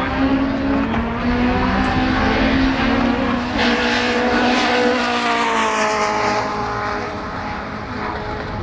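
Racing car engines running at high revs, one swelling in loudness and then dropping in pitch as it passes, about five seconds in.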